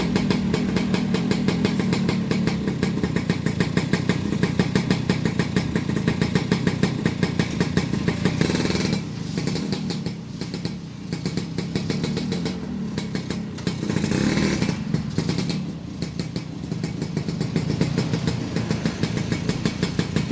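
Suzuki Satria 120 RU's single-cylinder two-stroke engine running, mostly at a steady idle, with its note rising and falling a few times in the middle.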